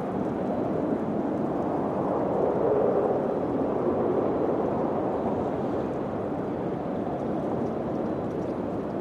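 Wind blowing steadily as a dull rushing noise, swelling a little about three seconds in.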